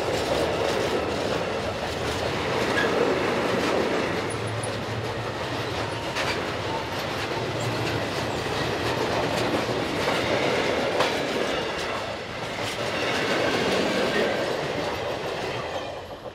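Long freight train of hopper wagons and rail-carrying flat wagons rolling past close by: a loud, steady rumble of steel wheels on the rails with a few sharp knocks. The noise falls away near the end as the last wagon passes.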